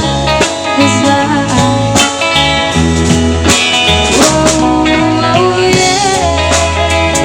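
Live band playing an instrumental passage with electric guitar, bass and drum kit, in a blues feel.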